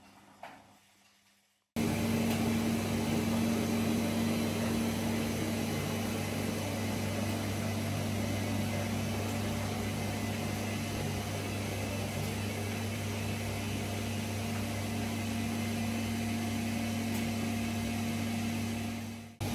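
A Gorenje PS 1008 BM washing machine running: a steady motor hum with even whirring noise that comes in abruptly about two seconds in and holds level until it cuts off just before the end.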